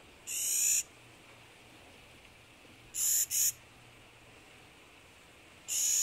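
Clark's nutcracker giving harsh, grating calls: one, then a pair about three seconds later, then another pair near the end.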